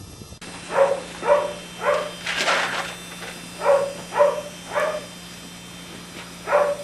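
A dog barking: about eight short, separate barks, in quick runs with a longer gap before the last one, over a steady low hum.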